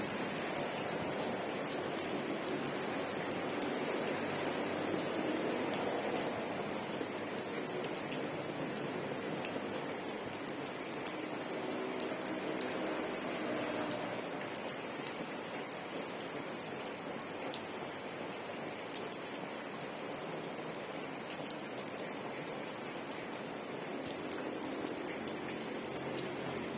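Steady rain falling, with a dense hiss and faint scattered drop ticks.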